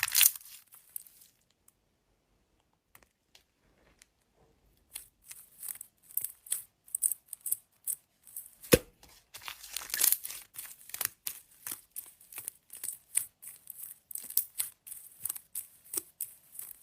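Slime being pressed and stretched by hand, giving a quick irregular run of crisp crackles and clicks that starts after a few seconds of quiet.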